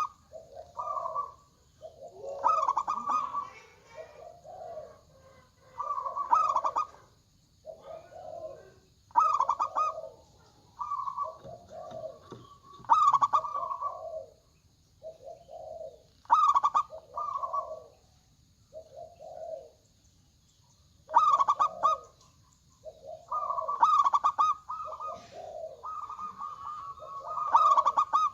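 Local perkutut (zebra doves) cooing: short rolling phrases of low and higher notes repeat every few seconds, and near the end the phrases crowd together and overlap.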